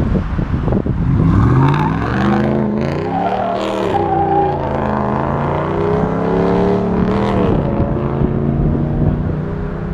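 Car engine revving hard and accelerating, its pitch climbing about a second in, then dipping and climbing again twice before falling away near the end.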